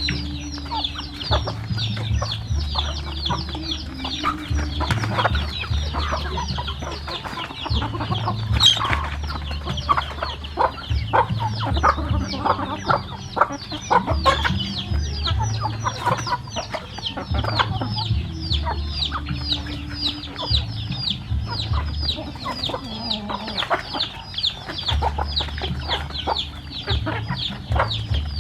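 A flock of chickens clucking and cheeping without a break, with many short high calls several a second. A low rumble comes and goes underneath.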